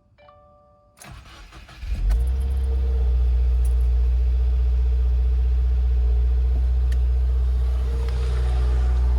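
A 2019 Subaru WRX's turbocharged 2.0-litre flat-four, on its stock exhaust, being started: an electronic chime sounds once more, then the starter cranks for about a second before the engine catches and settles into a steady, deep idle.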